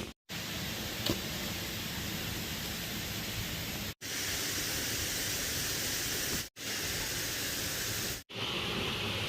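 Steady rushing of a waterfall, broken by brief silent cuts between short clips, with a faint click about a second in.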